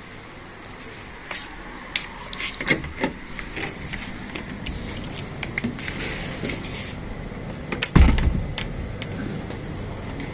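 Everyday handling noises over a steady background hum: scattered clicks and knocks, and one heavy thump about eight seconds in.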